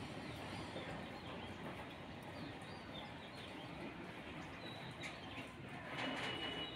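Small birds chirping now and then over a steady background hiss, with a brief louder swell of noise and a thin high tone near the end.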